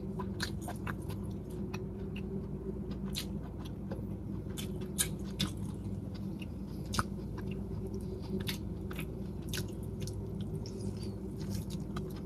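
Close-miked chewing of salt-cured chicken: a steady run of sharp, wet mouth clicks and smacks, with a steady low hum underneath.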